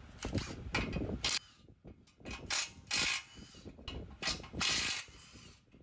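Socket ratchet wrench clicking in a series of short, uneven strokes, working a bolt loose.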